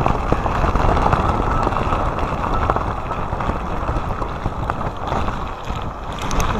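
Typhoon-strength wind buffeting a phone's microphone: a loud, unbroken rush of wind noise.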